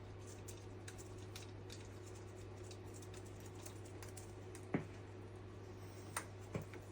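Light, scattered ticks and clicks of small metal engine parts, such as head bolts and washers, being handled while the cylinder head is refitted, with a few sharper clicks in the second half, over a steady low hum.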